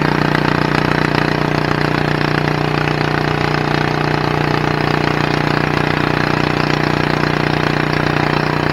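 Garden tractor engine running steadily at an even speed.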